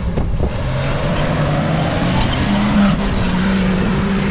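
Jeep's engine revving hard under load as it climbs a sand dune, its pitch rising over the first couple of seconds and then holding high.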